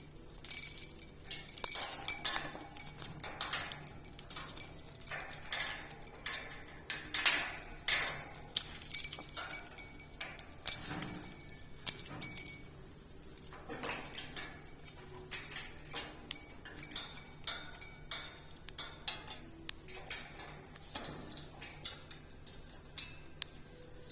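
African grey parrot making a rapid string of clicks and short high-pitched squeaks, mixed with metallic clinking.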